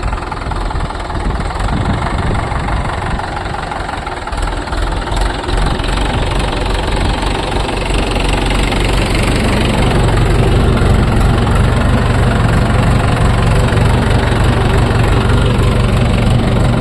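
Tractor diesel engine running hard under load, as in a tractor tug-of-war. The low engine hum grows louder and steadier about eight seconds in.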